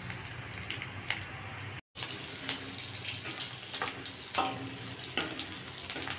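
Sliced onions and cumin seeds sizzling in hot oil in a kadhai, a steady hiss that drops out for an instant about two seconds in. In the second half a spatula stirs them, scraping and clicking against the pan several times.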